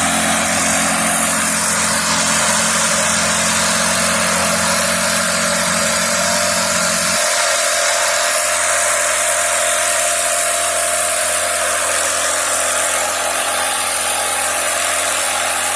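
Motor fitted to an inflatable rafting boat, running steadily. Its low engine hum drops away about seven seconds in, leaving a steady higher noise.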